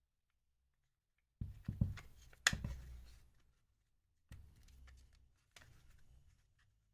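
Knocks and clicks of an impact driver's plastic clamshell housing halves being handled and pressed together over the motor and wiring, a sharp cluster with the loudest knock about two and a half seconds in, then two softer bouts of rattling.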